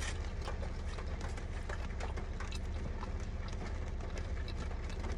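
Chewing a crispy fried chicken tender dipped in ranch: many small irregular crunches and mouth clicks over a steady low hum.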